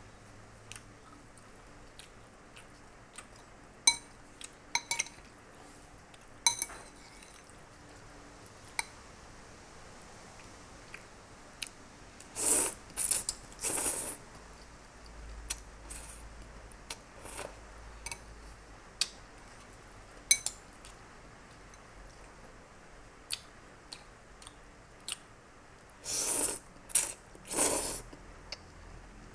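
Eating sounds: a utensil clicking and scraping against a food container, with scattered sharp clicks and two clusters of louder short noisy bursts, about halfway through and near the end.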